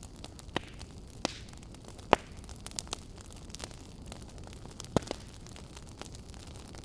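Wood fire burning with irregular sharp crackles and pops over a steady low hiss, two of the pops louder than the rest.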